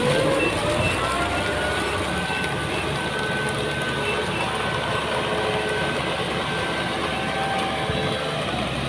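Diesel engine of heavy field machinery running steadily, with thin whining tones that drift slowly up and down in pitch over the engine noise.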